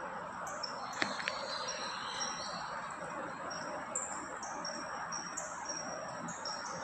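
Sling psychrometer being whirled by hand so that air flows over its wet-bulb thermometer: a faint steady whirring hiss, with two sharp clicks about a second in. Thin, high, steady tones shift in pitch every half second or so above it.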